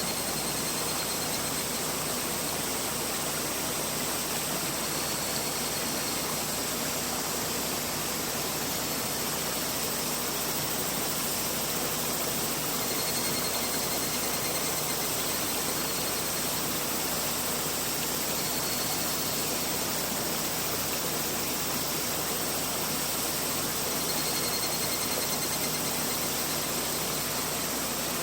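Mountain river flowing: a steady rush of water with no change in level. A few faint, short high-pitched tones sound every few seconds.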